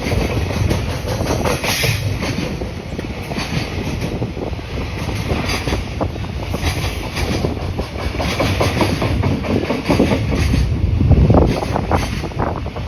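Freight train hauled by EF66 electric locomotive EF66-27 rolling through the station at speed, its wagon wheels clattering over the rail joints with a continuous rumble.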